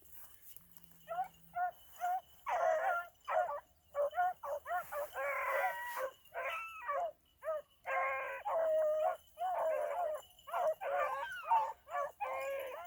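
A pack of beagles baying on a rabbit track, short chop barks mixed with longer drawn-out bawls, several hounds' voices overlapping.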